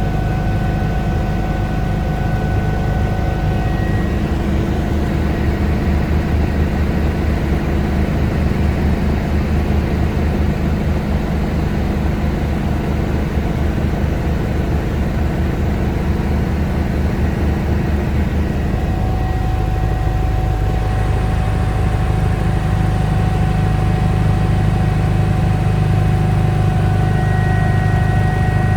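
Eurocopter EC145 helicopter in flight: a steady twin-turbine whine over the low, fast throb of the rotor. The low throb shifts in character about nineteen seconds in.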